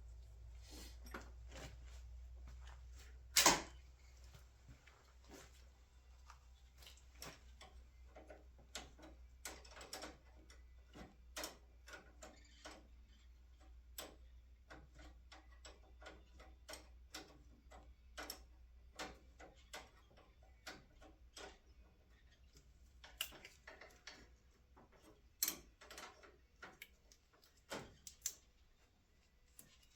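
Scattered light clicks and taps of hand work on a truck's brake line and its fittings, with one louder sharp knock about three and a half seconds in.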